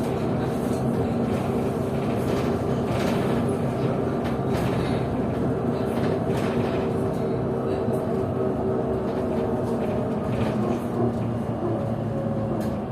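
PKTS-6281.01 "Admiral" trolleybus in motion, heard from inside the cabin. Its AC traction drive hums steadily with several held tones over road noise, and scattered clicks and rattles come from the body.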